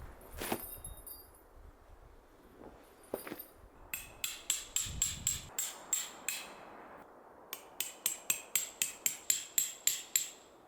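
Metal hammer driving a tent stake, each blow with a bright metallic ring. A couple of separate blows come first, then a run of about three blows a second, a brief pause, and a faster run of about five a second.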